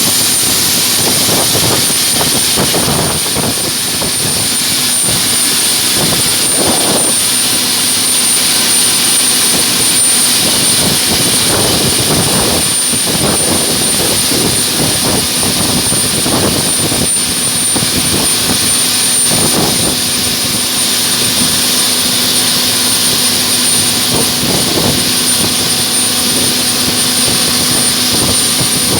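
Ilyushin Il-76 cargo plane's turbofan jet engines running, a loud steady rush with a thin high-pitched whine held on one note.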